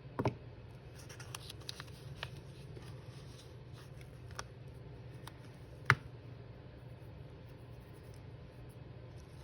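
Paper and craft materials being handled on a table: scattered light taps, rustles and clicks, the sharpest click about six seconds in, over a steady low room hum.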